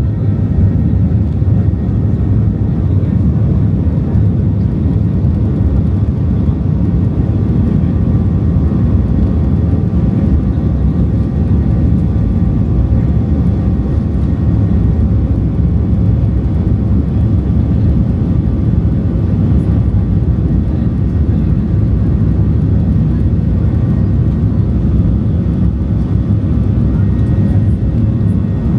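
Steady, unchanging drone of a Boeing 737-800's CFM56-7B jet engines and airflow, heard from inside the passenger cabin, with a deep rumble and faint steady whine above it.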